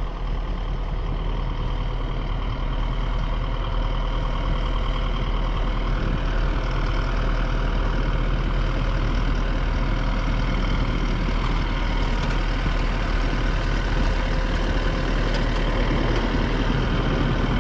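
Vehicle engine running steadily, a continuous low rumble with a faint steady whine over it.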